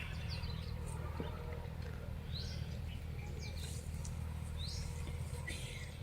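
A few short bird chirps, three or four spaced a second or two apart, over a steady low rumble.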